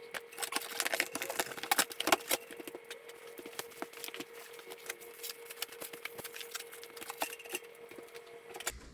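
Rapid clicks, clinks and light knocks of hand tools and metal parts being handled during plumbing work, busiest in the first couple of seconds, over a steady hum that cuts off near the end.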